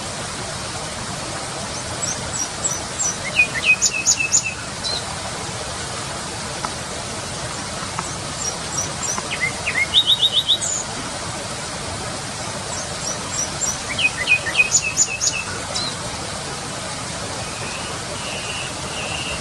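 A nightingale singing three short phrases a few seconds apart, each a quick run of repeated high notes and trills, over a steady background hiss.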